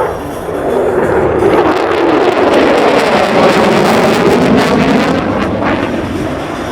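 F-22 Raptor's twin jet engines heard as a loud, even roar of a jet passing, building about a second in and holding loud.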